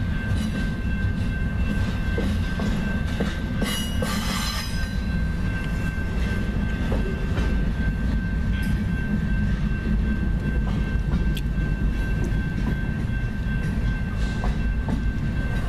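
BNSF double-stack container train rolling past: a steady low rumble of the cars and their wheels on the rails, with a brief high wheel squeal about four seconds in.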